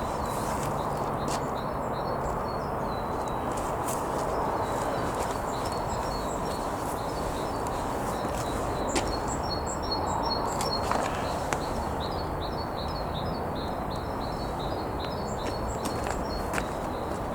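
Small birds chirping in quick, short, high notes over a steady background hiss, with a few scattered clicks.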